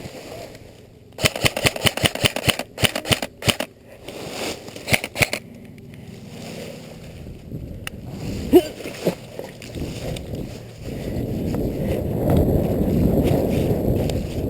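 Airsoft guns firing a rapid, uneven string of sharp shots for about four seconds, starting about a second in. Later a low rushing noise builds toward the end.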